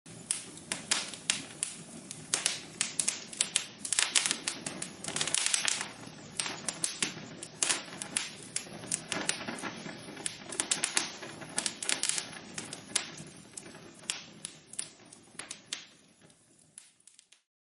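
Logs burning in a fireplace, crackling with dense, irregular pops and snaps over a steady hiss. The sound starts suddenly and fades out shortly before the end.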